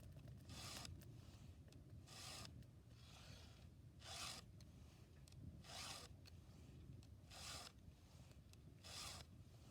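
Chainsaw chain being sharpened with a hand file: six short rasping file strokes across the cutter teeth, evenly spaced about a second and a half apart.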